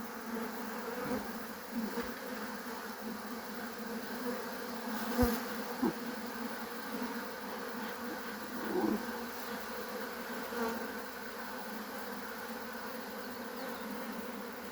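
Honeybees from an opened hive buzzing in a steady, dense hum around the frames, with a few light knocks from the frames and hive box being handled.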